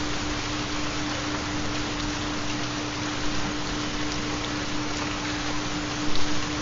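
Recorded steady rainfall, an even hiss with a few sharper drop taps about six seconds in, over a constant low steady tone from a theta binaural-beat track.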